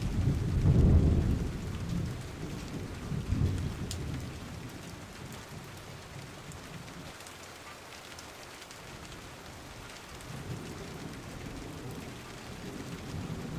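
Steady rain with rolling thunder. A heavy low rumble peaks about a second in, with another roll around three seconds. The thunder then dies away to rain alone and starts building again near the end.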